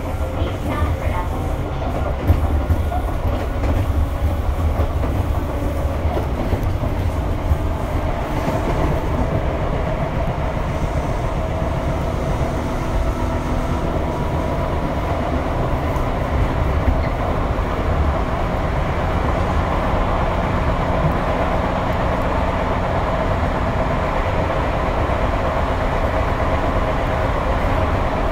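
Tobu 8000 series electric train running along the line: a steady rumble of wheels on rail, with a few sharp clacks over rail joints.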